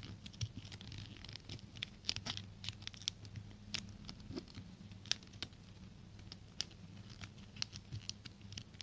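A sheet of paper being folded and creased by hand into an origami boat: irregular crisp rustles and sharp little crackles as the paper is pressed and bent, over a faint steady low hum.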